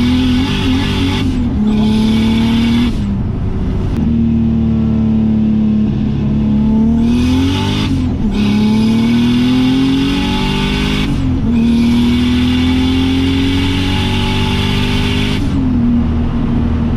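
Turbocharged BMW M50 straight-six in a BMW E30, heard from inside the cabin, pulling hard through several gear changes. The engine note climbs on each pull, with a loud rushing hiss and a faint rising turbo whistle under boost, and both drop away abruptly at each shift.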